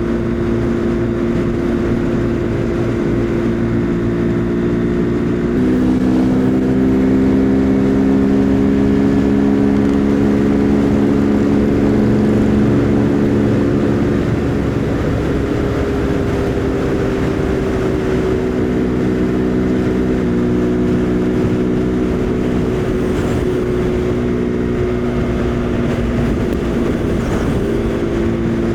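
Husqvarna Svartpilen 401's single-cylinder engine running at a steady cruising speed, with wind and road noise. The engine note steps to a new pitch suddenly about six seconds in and again about twenty seconds in.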